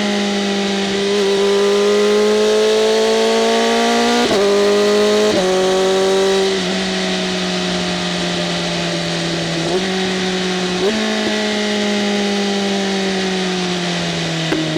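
BMW M1000RR's inline-four engine running through an SC-Project CRT exhaust with its valves open, while riding. The engine note drifts slowly up and down with several abrupt steps in pitch.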